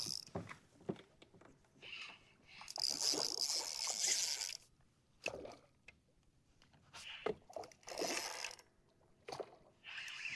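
Water sounds around a kayak: short knocks and sloshes, with a longer hissing splash about three seconds in and another near eight seconds.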